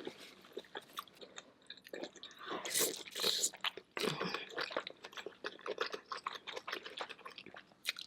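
A person eating a seafood boil: wet chewing and biting with a dense, irregular run of short clicks and mouth smacks, louder in clusters.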